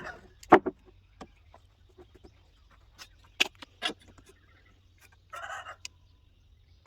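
Chickens clucking, with a few sharp knocks and taps from wood being worked by hand; the loudest knock comes about half a second in.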